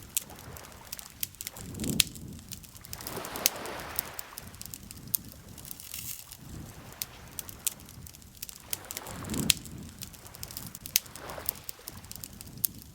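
Campfire crackling with frequent sharp pops, over gentle water lapping that swells and fades every few seconds.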